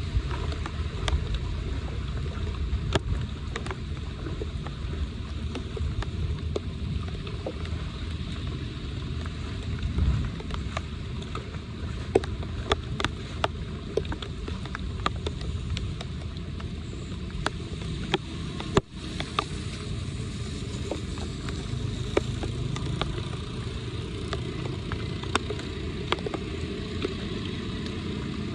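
Steady rush of flood water draining into a street storm drain, with scattered sharp clicks and knocks throughout.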